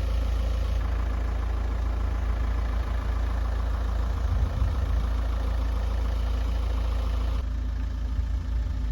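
A vehicle engine idling steadily, a constant low hum; about seven seconds in its upper tones drop away.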